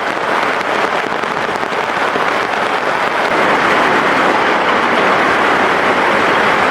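Heavy rain falling, a steady hiss that grows louder about three seconds in.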